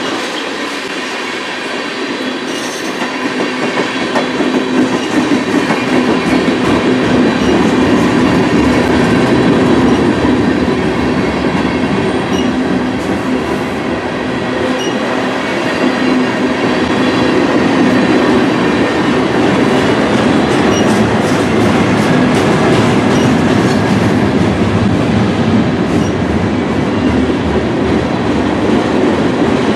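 Freight train's tank cars and covered hopper cars rolling past close by: a steady rumble and clatter of steel wheels on the rails, growing louder over the first few seconds.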